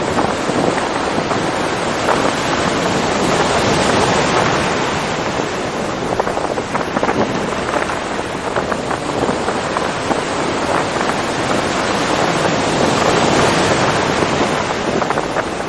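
Ocean surf washing in: a steady rushing hiss that swells gently twice, with a fine crackle of breaking foam.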